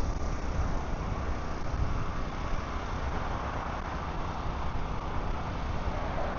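An engine running steadily, a continuous rumble with hiss.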